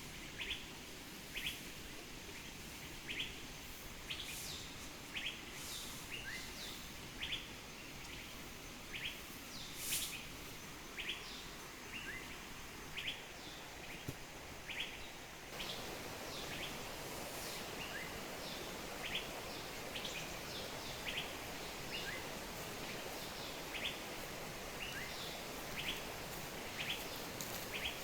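Songbird repeating a short, rising chirp about once a second, with a few higher chirps from other birds, over a steady outdoor hiss that gets louder about halfway through.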